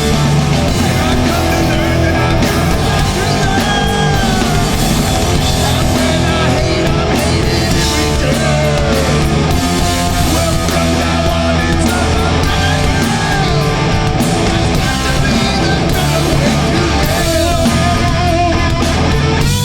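Hardcore punk band playing live: distorted electric guitars, bass and drum kit at full volume, with sung vocals over them.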